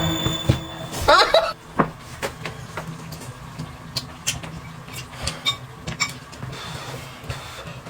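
Tableware at a meal: scattered light clicks and knocks of utensils against dishes. A short voice-like sound comes about a second in.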